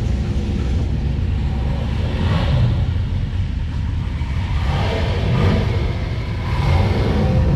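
Car engine running with a steady deep, low rumble.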